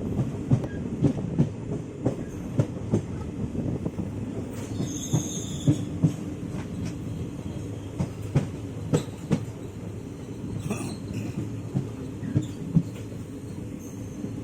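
Kanchankanya Express passenger train running, heard on board: a steady low rumble with irregular sharp clacks of the wheels over rail joints. A brief high wheel squeal comes about five seconds in, and a fainter one near eleven seconds.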